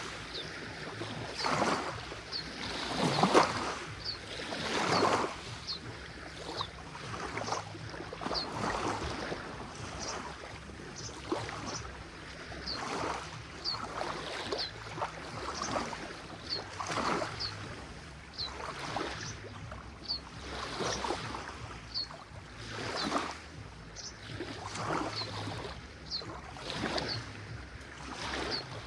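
Small lake waves lapping on a pebbly shore, the wash swelling and falling every second or two.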